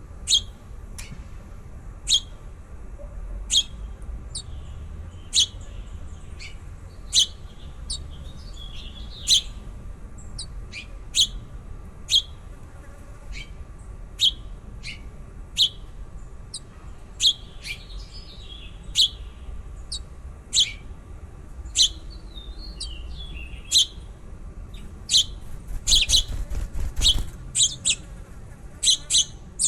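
Baby birds chirping: short, sharp, high chirps every second or two, with softer twittering between them, then a quick run of chirps near the end.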